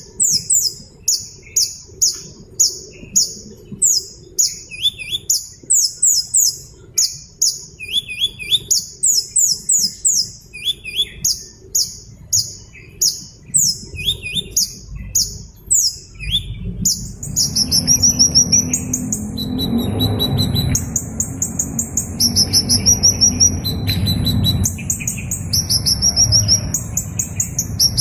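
Small bird chirping in quick runs of short, high, falling notes that repeat over and over. A little past halfway a low rumbling background noise comes in and the chirps change to a different pattern.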